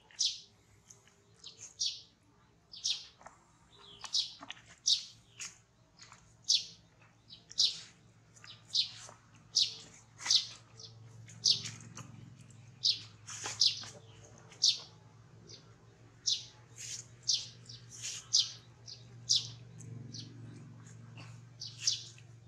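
A small bird chirping over and over: short, sharp, high chirps, roughly one or two a second, some dropping steeply in pitch. A faint low hum swells up twice underneath.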